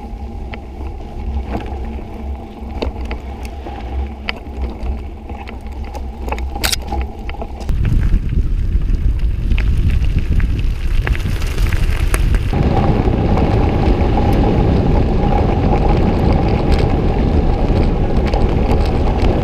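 Steady rumble and hum of a moving vehicle, in several short takes that change abruptly, louder from about eight seconds in.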